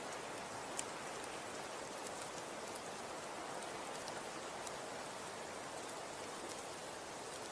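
Snow falling: a steady soft hiss with scattered light ticks, one a little sharper about a second in.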